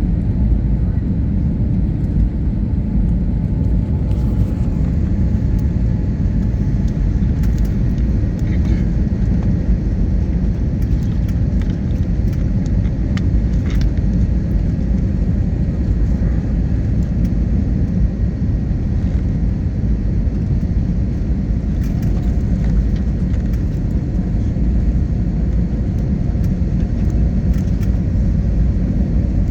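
Steady low rumble of an airliner's jet engines and rushing air, heard inside the cabin while the plane descends to land.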